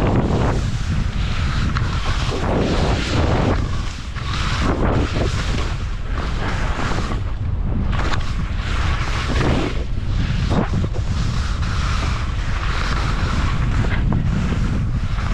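Wind buffeting the microphone of a skier's camera during a downhill run, a heavy steady rumble. Over it come swelling hisses of skis carving through snow, rising and falling with each turn.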